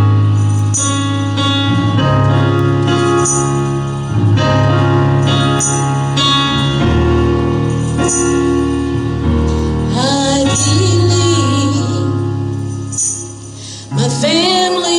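Live gospel music: sustained keyboard chords over a bass line, with jingling percussion hits every second or two. About two-thirds of the way through, a voice comes in singing a wavering, drawn-out melody line.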